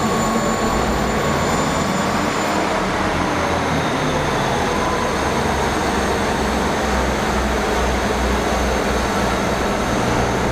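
A train running at the platform: a steady rumble and rush with a faint high whine that fades out about two and a half seconds in.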